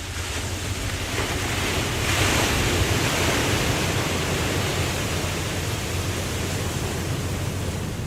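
Ocean wave surging and washing, swelling about two seconds in and then slowly subsiding, over a steady low rumble.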